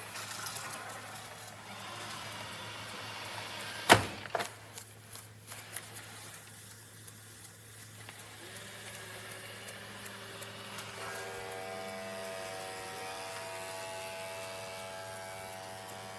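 Dreame D20 Pro Plus robot vacuum running: an even motor and brush noise, a sharp click about 4 seconds in, then a steady electric whine that starts about 8 seconds in and takes on a higher, multi-toned whirr a few seconds later.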